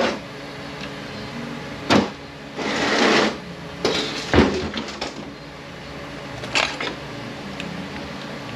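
Metal transmission parts being handled and lifted out on a workbench: a few sharp clanks and knocks, the loudest about two seconds in and again just after four seconds, with a short hissing rush around three seconds in, over a steady low hum.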